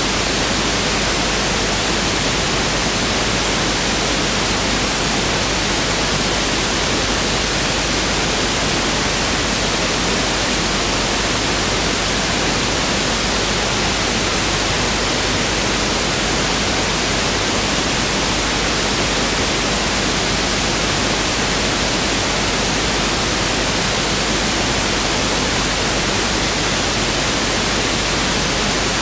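Pink noise test signal (1/f noise): a steady, even hiss across all frequencies, unchanging throughout.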